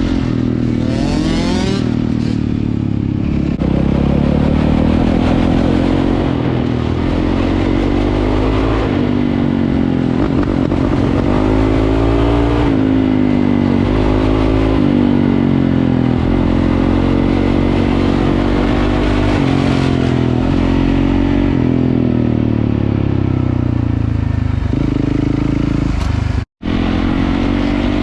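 Dirt bike engine being ridden, its pitch rising and falling over and over as it revs up and shifts through the gears. The sound cuts out for a moment near the end.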